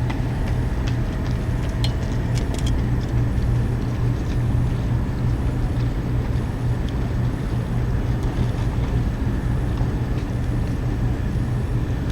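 Boat engine running steadily, a low even drone, with water and wind noise over it and a few faint ticks in the first few seconds.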